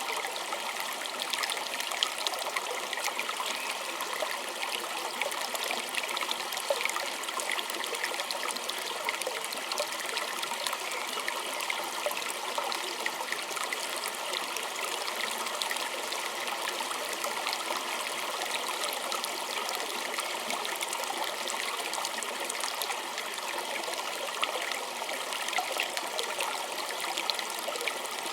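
Small stream trickling and babbling steadily, with many fine splashes and drips over the running water.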